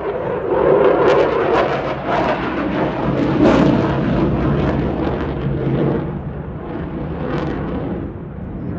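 Loud jet noise from a Eurofighter Typhoon's twin engines as the fighter flies past, swelling about a second in, loudest a few seconds in, then fading.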